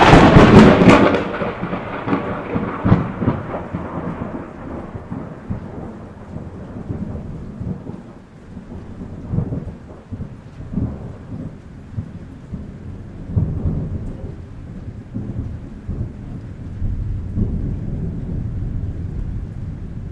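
A close thunderclap: a sudden sharp crack at the start, fading over a couple of seconds into a long rolling rumble. The rumble swells again several times over steady rain.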